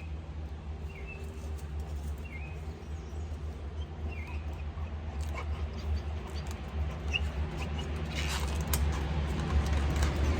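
A small bird chirping, short calls repeated every second or so, over a steady low rumble that grows louder near the end as a vehicle approaches.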